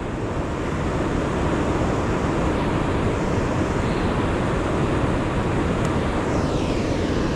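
Steady rush of fast-flowing river water, with no break or change.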